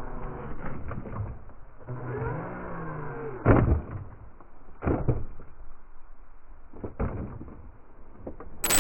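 Mini 1/18 RC crawler truck's upgraded electric motor whining, its pitch rising and falling about two seconds in, with three sharp knocks of the truck hitting; the first knock is the loudest.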